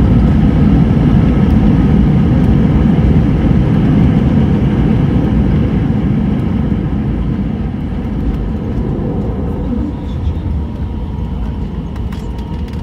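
Airbus A319 on its landing rollout, heard from inside the cabin: a loud, steady rumble of the engines and of the wheels on the runway. It fades as the jet slows, with a sudden drop about ten seconds in.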